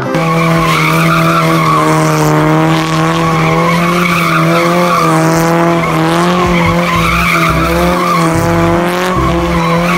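A motor-vehicle engine held at steady revs: one constant, even drone with only a slight waver, over a hiss of noise.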